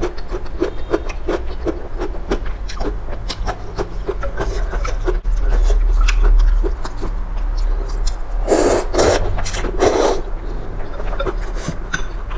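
Close-miked eating: rhythmic chewing of noodles and soup toppings, about three to four chews a second, with a few loud breathy bursts about two-thirds of the way through.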